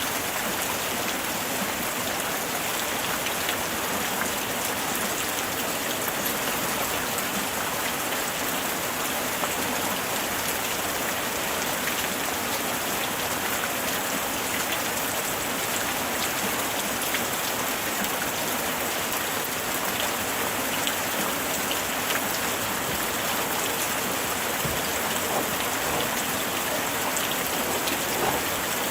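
Light rain falling steadily: an even hiss of rain on surfaces, dotted with many small, separate drop ticks.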